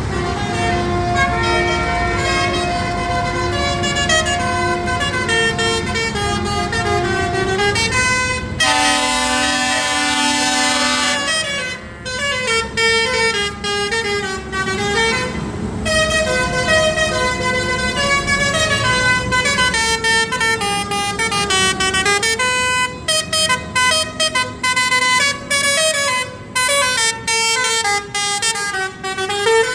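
Vehicle horns playing a tune of quick changing notes over a low engine rumble, with a long, harsher horn blast about nine seconds in.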